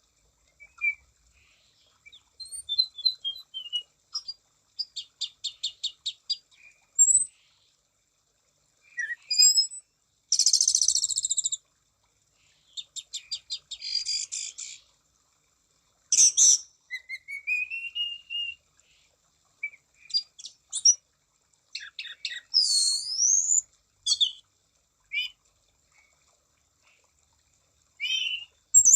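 Anis cendana (orange-sided thrush) singing a varied song of short high phrases: fast runs of repeated notes, sliding whistles that rise and fall, and sharp chips, with brief pauses between phrases.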